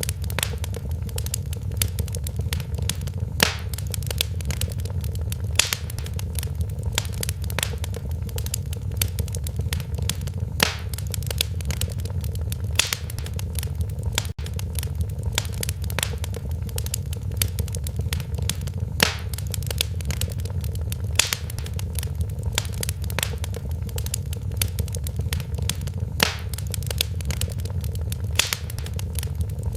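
Wood fire in a fireplace crackling, with many small sharp pops and a louder snap every couple of seconds over a steady low rumble.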